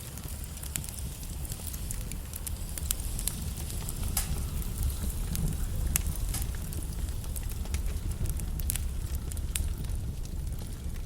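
Wood logs burning in a fireplace: a steady low rumble of the flames with frequent irregular crackles and sharp pops.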